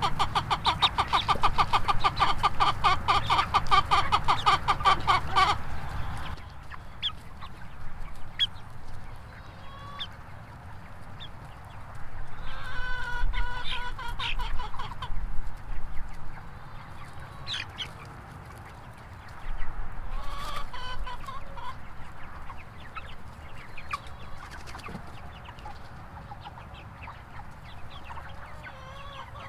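Chickens clucking and calling: a loud, busy stretch of rapid clucking for about the first six seconds, then quieter, scattered clucks and calls.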